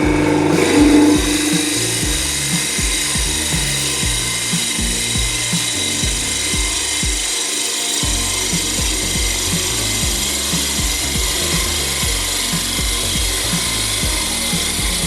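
Woodturning gouge cutting a spinning workpiece on a wood lathe: a steady hiss of shavings over the lathe's running.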